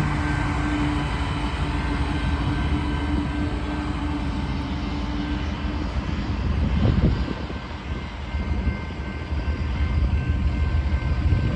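Freight train rumbling past with a steady low engine hum that fades out about six seconds in, leaving a low rolling rumble and some wind on the microphone.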